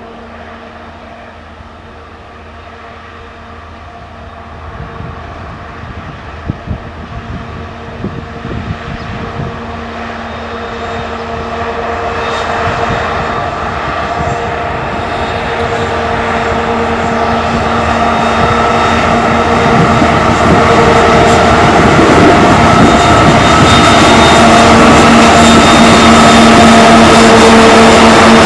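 2TE116 diesel locomotive's 5D49 V16 diesel engines working hard on an upgrade: a steady drone with a low and a mid hum, growing steadily louder as it approaches. A few sharp knocks come between about five and nine seconds in.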